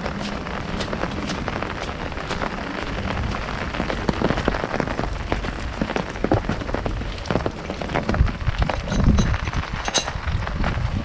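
Heavy rain falling on an umbrella overhead: a dense, steady patter with many individual drop hits standing out. Some heavier low thumps come in during the second half.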